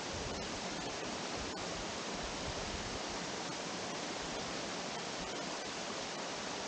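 Small waterfall on a creek: a steady rush of falling water with a few faint ticks.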